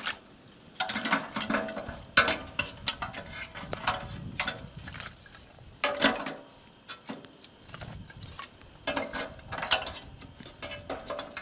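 Split firewood being loaded into a small homemade metal stove: a series of irregular knocks and clatters of logs against one another and the metal firebox.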